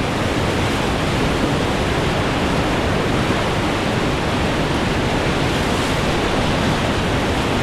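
Whitewater of a river rapid rushing past the raft: a steady, dense rush of water noise.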